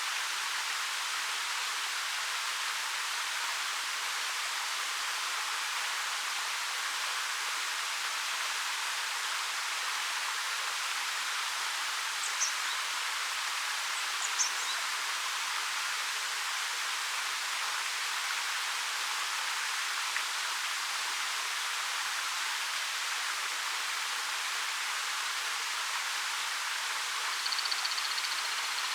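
Ariake Falls, a 13 m waterfall, pouring over black rock: a steady, even rush of falling water. A couple of brief, high chirps sound near the middle.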